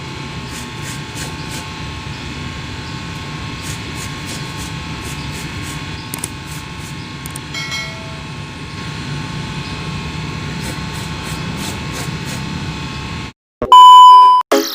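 Steady low mechanical hum with faint regular ticking, then it cuts off and a loud electronic tone sounds briefly near the end.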